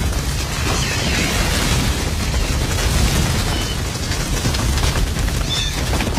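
Film sound effect of a herd of Gallimimus dinosaurs stampeding: a loud, continuous rumble of pounding footfalls, with a couple of short high cries in the second half.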